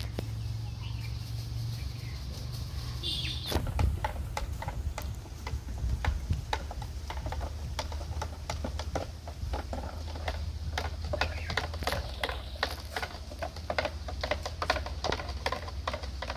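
Pesticide being mixed into water in a container: a run of irregular clicks and knocks that starts a few seconds in, over a steady low hum. A bird chirps briefly just before the knocking begins.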